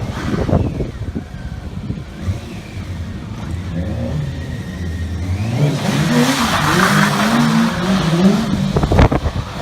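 Stunt motorcycle engine running low, then revved up and down in repeated blips from about the middle on, with a rushing hiss alongside, and a sharp crack near the end.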